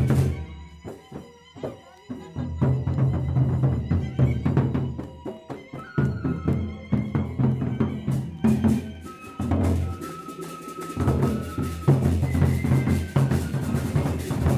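Lombok gendang beleq ensemble playing: big drums beating a dense rhythm with cymbal clashes, and a suling flute holding long high notes above. The deep drumming drops out briefly twice.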